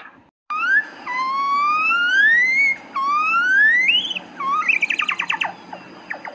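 Monkey calling: three long rising whooping calls, each climbing higher, then a quick run of short rising notes.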